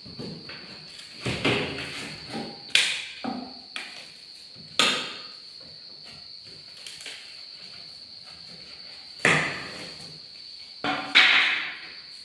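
Packaging being handled while a vinyl cutting plotter is unboxed: about five sharp knocks and short scraping rustles, with a steady high-pitched cricket trill behind them.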